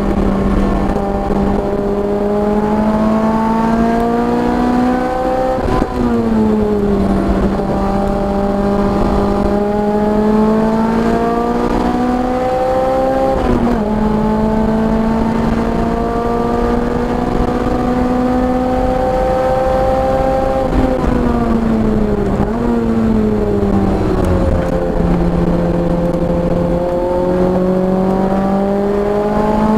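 Car engine working hard on a track lap: its pitch climbs steadily and drops sharply twice as it shifts up, sags through braking for a corner about two-thirds of the way in, then climbs again under acceleration near the end.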